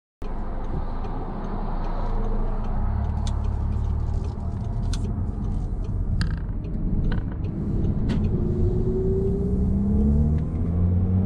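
2011 Audi TT Quattro's 2.0 TFSI turbocharged four-cylinder (EA888) heard from inside the cabin, running under way with road noise, its pitch climbing in the last few seconds. This is a test drive on a newly replaced knock sensor. A few sharp clicks are heard along the way.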